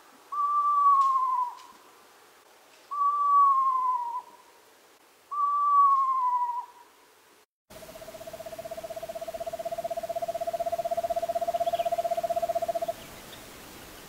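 Eastern screech owl calling: three falling, quavering whinnies about two and a half seconds apart, the territorial song often likened to a horse or a ghost, then a long even trill held on one lower pitch for about five seconds.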